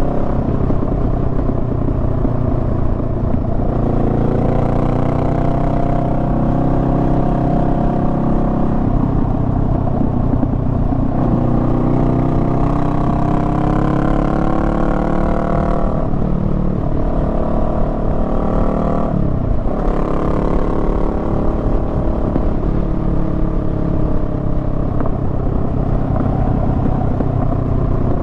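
Honda Rebel 500's parallel-twin engine running under way on a twisting road, its pitch rising and falling with the throttle, with two sharp drops in pitch a little past halfway, over a steady rush of road and wind noise.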